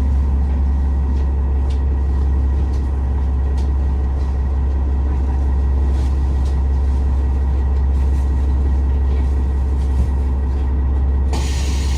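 KiHa 47 diesel railcar heard from inside the car, its diesel engine running with a steady low drone and faint light clicks. Near the end a steady hiss of air starts up.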